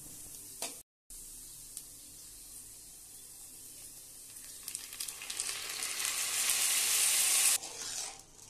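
Moong dal frying in oil in a kadai, with a faint low sizzle under a spatula. About halfway through, washed, still-wet rice is poured in and the sizzling turns loud and steady, then cuts off sharply near the end.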